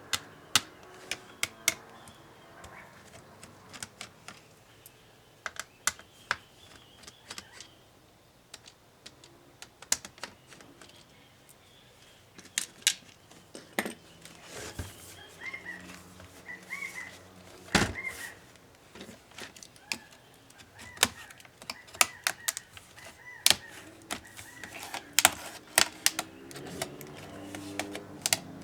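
Irregular sharp clicks and taps of plastic and metal as an HP ProBook 450 G5 laptop is taken apart by hand with small tools, with a few brief faint squeaks in the middle.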